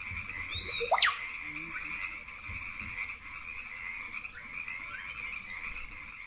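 Dense Amazon rainforest chorus of calling frogs and insects, a steady high shrill band, with one sharp rising sweep about a second in as the loudest moment and a few fainter calls later.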